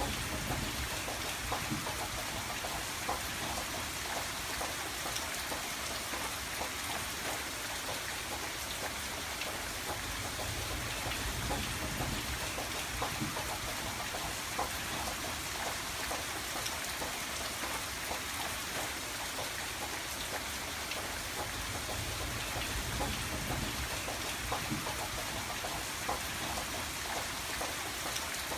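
Steady rain falling on a window pane: a constant hiss thick with small raindrop taps.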